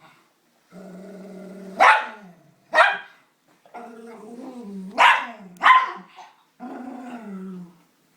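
An annoyed dog growling in long, drawn-out grumbles about a second each, broken by four short, sharp barks.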